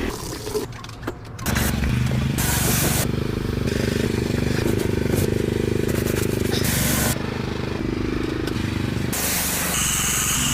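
Engine-driven pressure washer running steadily, with several short hissing bursts of spray.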